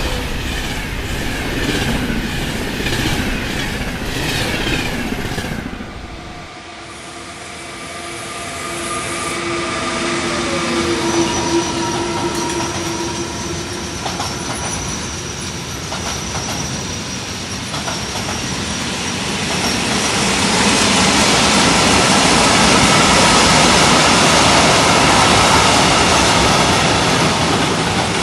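Trains passing on the line: first a rhythmic clickety-clack of wheels over rail joints as wagons roll by. After a sudden cut, a train comes through with steady whining tones, one falling in pitch. In the last third it grows louder, with squealing wheels.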